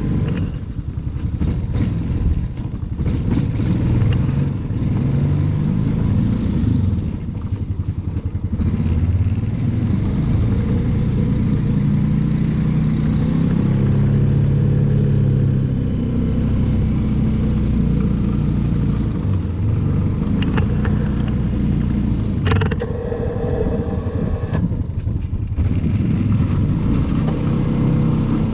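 Engine of a snow-clearing machine running steadily, its pitch rising and falling as it is worked up and down in revs. A couple of sharp metallic clanks come about three-quarters of the way through.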